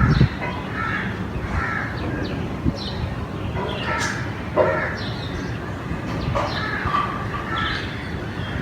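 Crows cawing repeatedly, many short calls overlapping one another, over a steady low background rumble.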